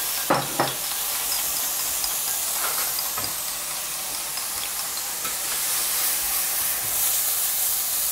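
Tempeh cubes sizzling steadily as they sear in a pan. A spoon stirring vinaigrette in a ceramic bowl gives two sharp knocks just under a second in, then a few lighter clinks.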